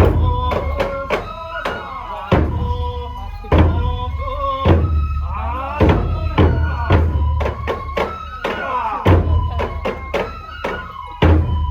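Traditional Japanese folk music accompanying a nenbutsu kenbai sword dance: a drum beats steadily while a flute-like pitched line holds long notes.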